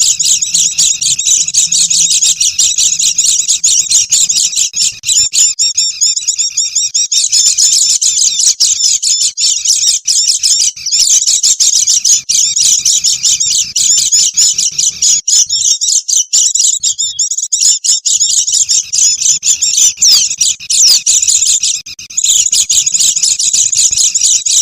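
A flock of white-eyes (pleci) chattering busily, many high twittering calls overlapping almost without pause, with brief lulls a few times. This is the noisy chatter used as a lure call to draw in wild birds.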